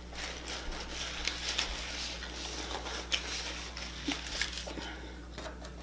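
Close-miked chewing of a grilled tortilla wrap with crunchy corn shells inside: a string of small crunches, wet clicks and squishes, over a steady low electrical hum.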